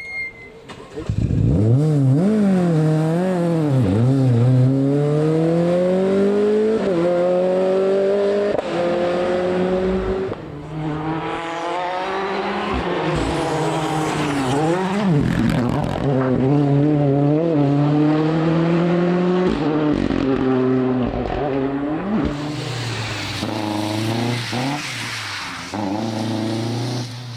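Rally car engine revving hard through the gears, its pitch climbing and then dropping sharply at each upshift, with lifts and re-accelerations as it drives through the stage.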